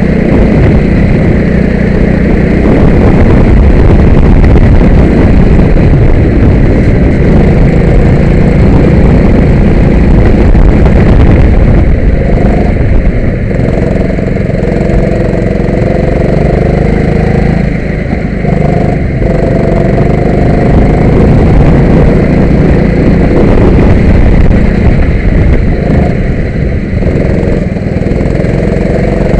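Go-kart engine running loud and continuously, its pitch rising and falling repeatedly as the kart speeds up and slows down.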